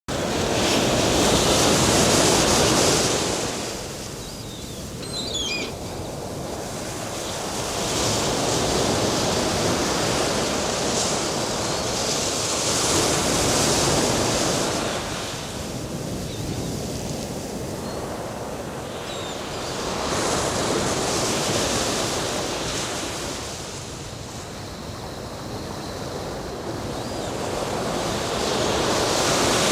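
Black Sea surf on a sandy beach, waves washing in and falling back, swelling and fading every several seconds.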